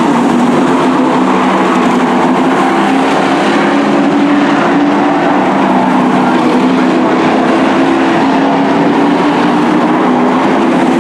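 Race truck engines running together on a short oval track: a loud, steady drone made of several engine notes whose pitch rises and falls slightly.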